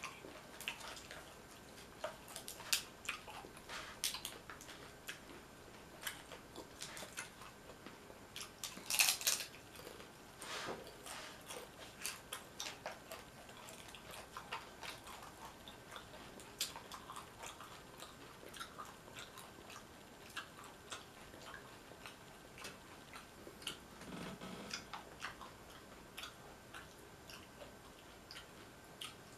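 Close-miked chewing of nachos: crisp tortilla chips crunching, with many small scattered mouth clicks. A louder run of crunches comes about nine seconds in.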